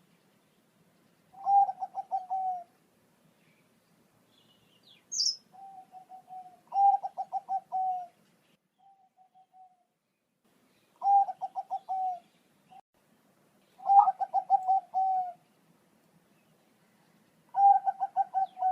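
Zebra dove (perkutut, Thai-bred Bangkok line) singing. It gives five phrases of rapid stuttering coos on one steady pitch, each about a second long and a few seconds apart, with shorter, softer coos in between.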